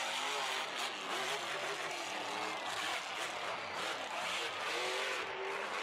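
Monster truck engine running hard and revving, its pitch rising and falling.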